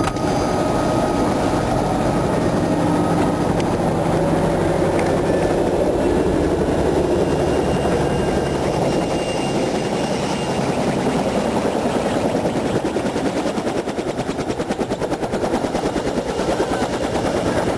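Helicopter running in flight, heard from inside the cabin: a loud steady engine and rotor noise with a fast, even rotor chop that grows more distinct about halfway through.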